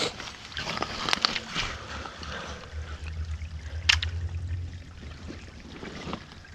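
Shallow creek water trickling and splashing as rocks are turned over by hand, with several sharp clicks in the first second and a half and one sharp knock about four seconds in.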